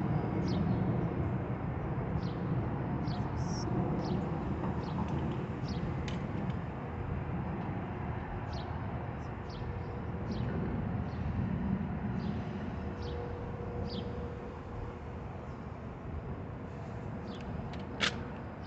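Low vehicle rumble, slowly fading, with short bird chirps every second or so and one sharp click near the end.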